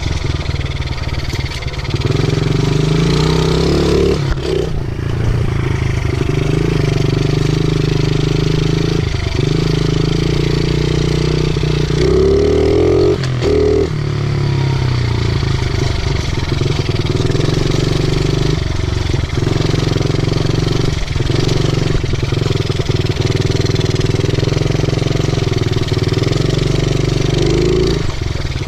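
50cc pit bike engine running under way, its pitch rising and falling with the throttle, easing off briefly a few times and revving up in a rising sweep a little before the middle.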